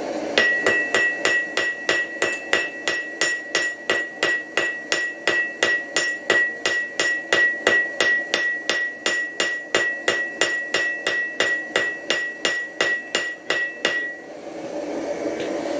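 Power hammer striking metal in a steady, even rhythm of about three blows a second, with a high metallic ring that carries through the blows. The hammering stops about two seconds before the end.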